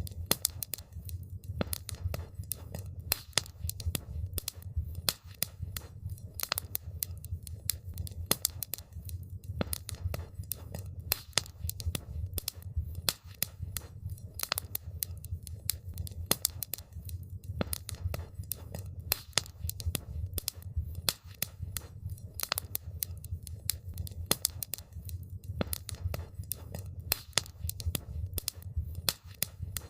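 Wood campfire crackling: a dense, irregular run of sharp pops and snaps over a steady low rumble of the burning fire.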